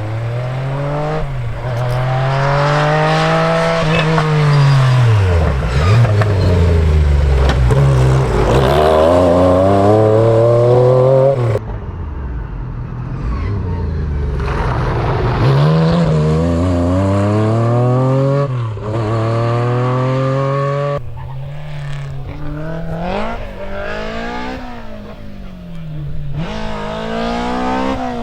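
Rally car engines revving hard, the pitch climbing through each gear and dropping sharply on lift-off and downshifts as cars drive past, several times over.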